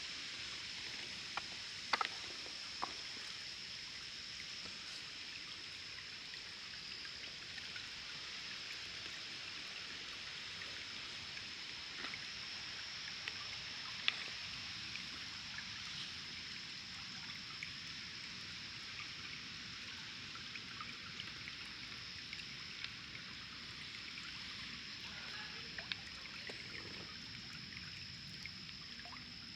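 Water of a small stream and waterfall trickling and flowing steadily, over a steady high-pitched tone, with a few light clicks and knocks.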